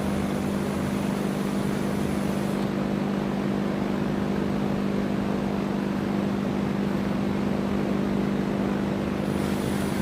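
Electric drill running steadily with a constant motor hum, boring a 3/16-inch hole through a steel rifle trunnion.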